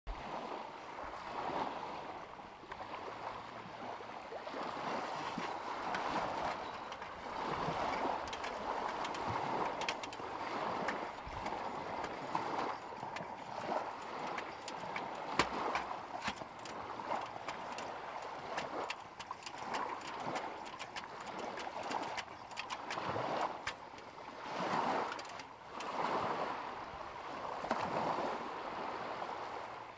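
Small lake waves lapping at the shore, washing in and out every second or two with many little splashes.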